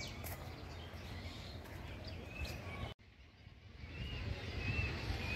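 Quiet outdoor ambience with a low rumble and a few short bird chirps. The sound cuts out for about half a second roughly three seconds in.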